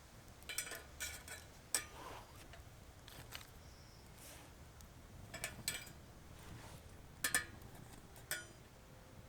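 Wood fire crackling in a stainless-steel Solo Stove Titan fire pit: faint, irregular pops and snaps, a few of them sharper with a brief metallic ring.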